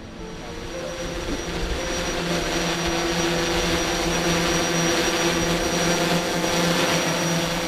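Electric motors and propellers of a Cinestar 8 multirotor camera rig running with a steady whirring hum, growing louder over the first two seconds or so and then holding.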